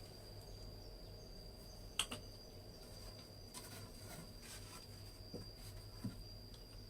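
A faint, steady, high-pitched insect drone, with a few sharp clicks; the loudest click comes about two seconds in and a smaller one near the end.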